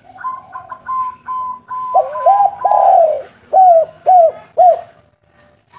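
Spotted dove (tekukur) cooing: a longer rolling coo, then three short arched coos, over a run of short higher-pitched notes.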